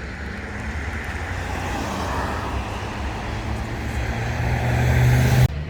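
Road traffic noise: a motor vehicle's rumble building steadily louder as it approaches, then cutting off suddenly near the end.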